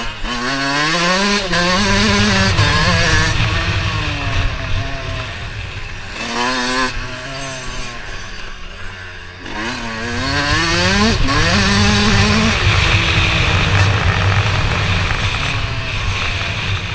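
Motocross bike engines revving, climbing in pitch and dropping back through gear changes in about three runs, over a steady low rumble.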